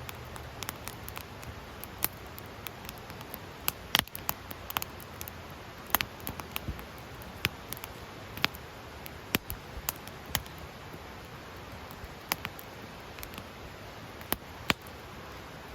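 Wood fire in a fire pit crackling: irregular sharp pops and snaps, a dozen or more, over a steady hiss.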